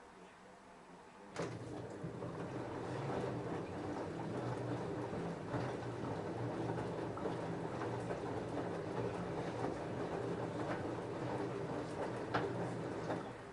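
LG F10A8HDS5 front-loader's drum turning with a load of jeans tumbling inside, a steady motor hum with scattered knocks, starting suddenly a little over a second in and stopping near the end.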